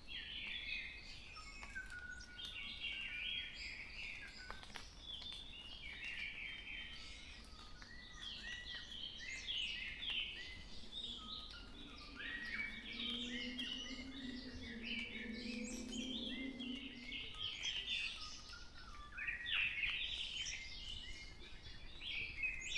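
Several forest birds calling and singing together in a dawn chorus: many short chirps and trills overlapping throughout. A low hum of distant road traffic rises and fades in the middle.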